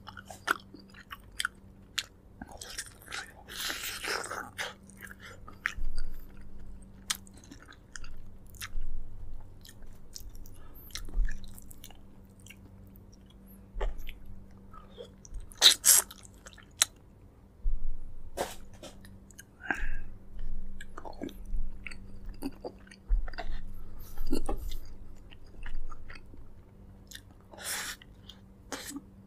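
A person chewing and biting braised pork leg close to the microphone: irregular wet mouth clicks and smacks, with a few louder, sharper bites.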